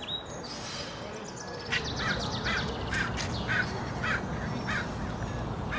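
Outdoor ambience: a steady rushing background noise, with a bird calling in a run of short repeated notes, about two or three a second, from about two seconds in.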